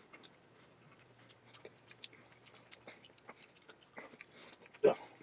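A person chewing a bite of a chewy Quest protein bar: faint, irregular wet mouth clicks, with a brief louder mouth sound near the end.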